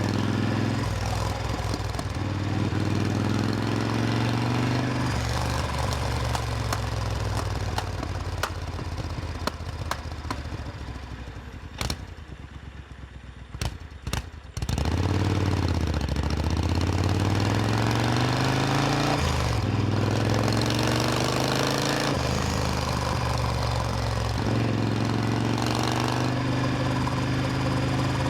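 Supercharged Triumph Thunderbird Storm's parallel-twin engine on the move: running steadily, then easing off and dropping quieter near the middle with a few clicks, before it comes back loud about halfway through with its pitch rising and falling as the bike pulls away again.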